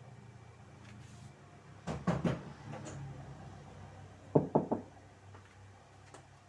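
Sharp knocks and clunks of hard kitchen objects being handled while making coffee. There are three about two seconds in and three louder ones about four and a half seconds in.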